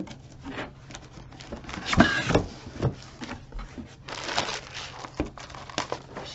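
A box of books being opened and unpacked by hand: packaging rustling, with scattered clicks and knocks, loudest about two seconds in and again about four seconds in.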